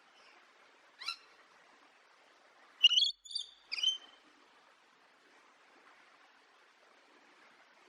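Parrot calls: a short rising call about a second in, then three loud, high calls in quick succession about three to four seconds in, over a faint steady hiss.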